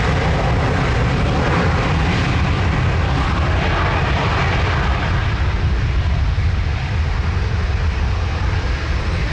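Twin Rolls-Royce BR710 turbofan engines of a Bombardier Global 5000 business jet running, a steady, loud jet noise with a heavy low rumble that eases slightly about halfway through.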